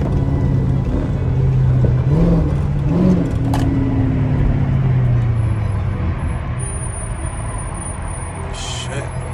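Straight-piped 5.7-litre Hemi V8 of a Chrysler 300S, its exhaust droning while driving, with two short rises in pitch a couple of seconds in; after about five seconds it drops lower and quieter as the throttle eases off.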